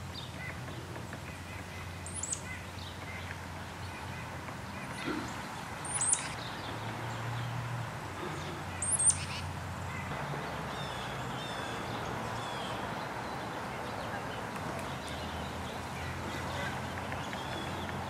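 Birds calling over a river's steady rush of water past a rock and ice: three sharp, high calls that drop quickly in pitch about two, six and nine seconds in, then fainter chirps in the second half.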